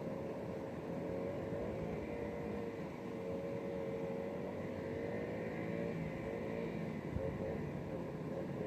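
Dirt bike engine running at a distance, its pitch wavering up and down as the throttle opens and eases off.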